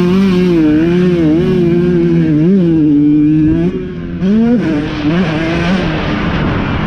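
Off-road racing motorcycle engine revving hard, its pitch rising and falling repeatedly as the throttle is worked. About four seconds in it drops off briefly, then revs up again.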